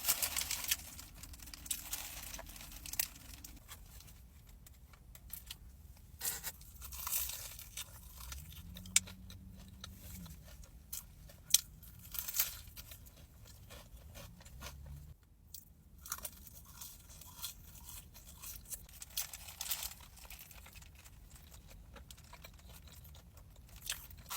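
A person eating close to the microphone: irregular crunching bites and chewing of crispy food.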